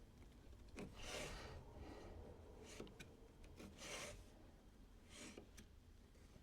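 Near silence, with a few faint breathy swishes and light clicks of small handling noises.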